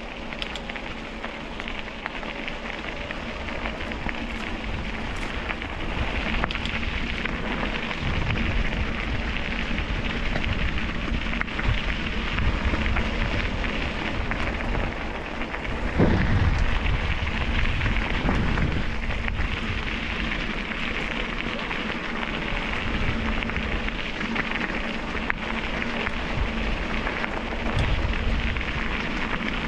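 Continuous crackling, rustling noise of wheels rolling over a gravel canal towpath, with gusts of wind rumbling on the action camera's microphone about a quarter, half and near the end of the way through. A faint steady hum runs underneath.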